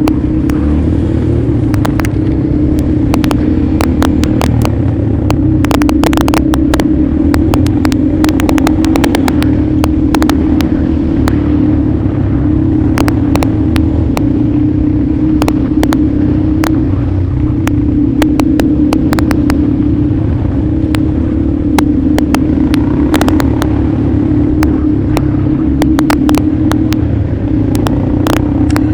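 Motorcycle engine running under way at a fairly steady speed, with a low rumble and many sharp clicks and ticks scattered through it.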